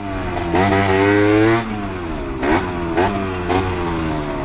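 Motorcycle engine revving: the pitch climbs and holds for about a second, then drops back, followed by three short throttle blips.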